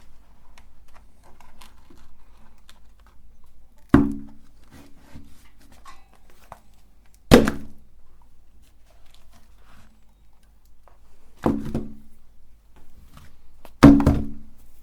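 Four heavy thunks, each with a short low ring, a few seconds apart, with light clicking and rustling between them.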